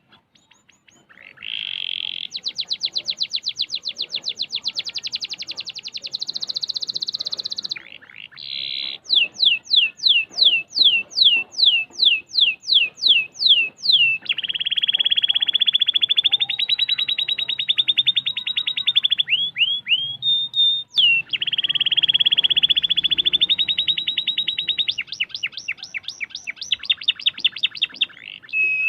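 Domestic canary singing a long, continuous song of tight rolls and trills. It moves from fast buzzing rolls to a run of sharp downward-sweeping notes at about three a second, then to long steady rolls.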